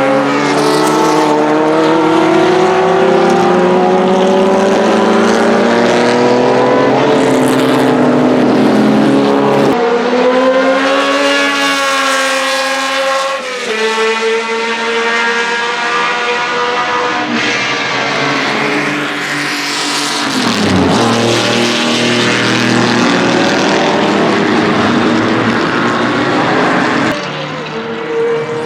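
Ferrari 1512's 1.5-litre Tipo 207 flat-12 racing engine at high revs, its pitch climbing and then dropping sharply at each gear change as the car accelerates. About twenty seconds in the pitch sweeps down as the car passes.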